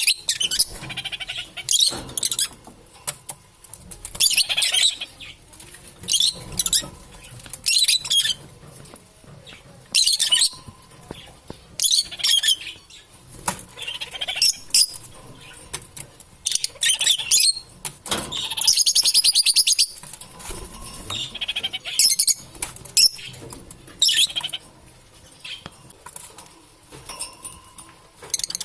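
Lovebirds calling: sharp, high-pitched chirps and squeaks in bursts every second or two, with a longer rapid chattering run about two-thirds of the way through.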